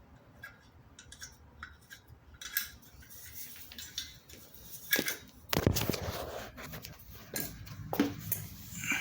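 Light metallic clicks and knocks of tools and parts being handled, with a louder clatter about five to six seconds in.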